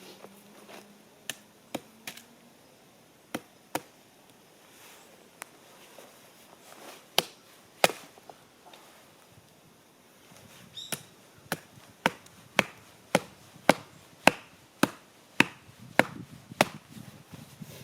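Firewood being chopped: sharp blows on wood, a few irregular strikes at first, then a steady run of about ten blows, roughly two a second, in the second half.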